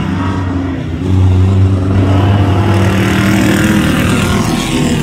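Autocross vehicles' engines running on a dirt course: a steady low engine sound that gets louder about a second in and holds.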